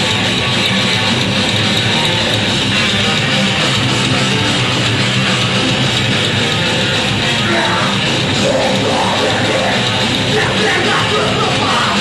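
Loud live rock band playing a heavy punk-metal song, guitars and drums, with yelled vocals coming in about seven or eight seconds in.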